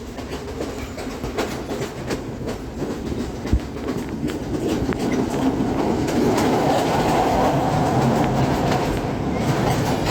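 Passenger train running on the rails, with wheels clicking and knocking over the track. The running noise grows louder about six seconds in.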